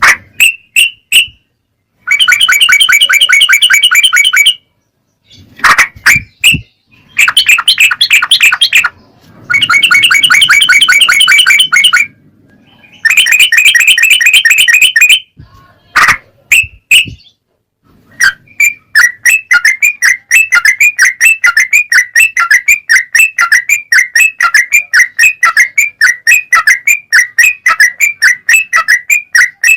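Songbird song from an edited recording: bursts of fast trilled notes, each a couple of seconds long and cut off abruptly with silent gaps, then, from a little past the middle, a long unbroken run of quick repeated chirps, several a second.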